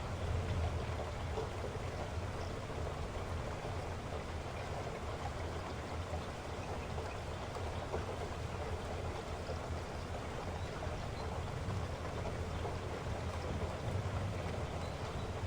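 Steady heavy rain falling, an even rushing wash with a deep low rumble.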